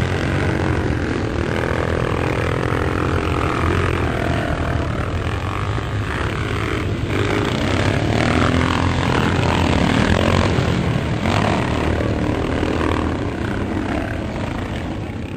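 Several motocross motorcycles racing on the circuit, their engines revving up and down as they go through the gears, loudest about ten seconds in and falling off a little near the end.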